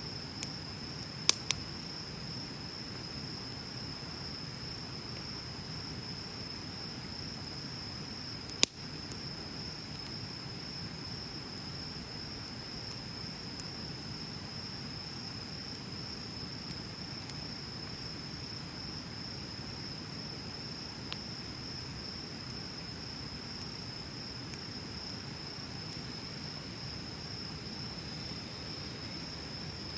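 Wood bonfire burning with soft crackling and a few sharp pops, the loudest about nine seconds in. A steady high-pitched insect chorus, like crickets, runs underneath.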